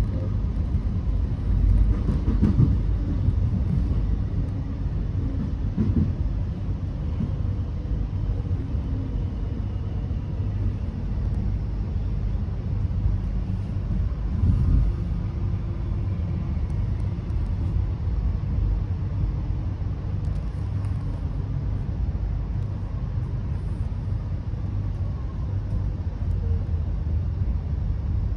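Suburban electric train running along the line, heard from inside the carriage: a steady low rumble of wheels on track, with a few heavier thumps.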